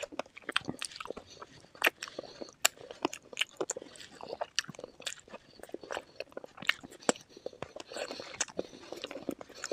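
Close-miked eating: chewing and biting on chicken feet, with sharp irregular crunches and cracks from the bones and cartilage and wet, sticky chewing sounds between them.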